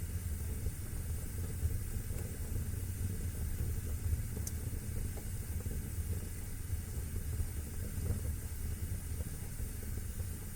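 Wood fire burning in a fireplace: a steady low roar with a hiss over it, and a single sharp crackle about four and a half seconds in.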